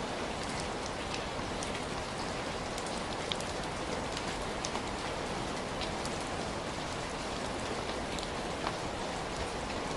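Steady heavy rain falling on a surface, an even hiss with scattered individual drop ticks.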